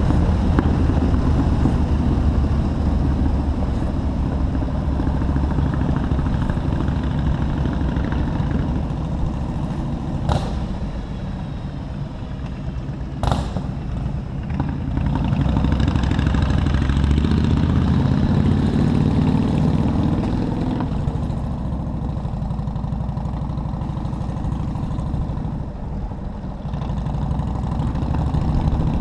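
Motorcycle engine running while riding through city traffic, its low note rising and falling with the throttle. There are two sharp clicks, about ten and thirteen seconds in.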